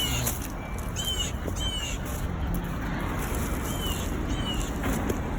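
An adult songbird, the fallen fledgling's parent, giving short sharp high chirps, mostly in pairs about half a second apart: alarm calls over its young on the ground. A steady low rumble runs underneath.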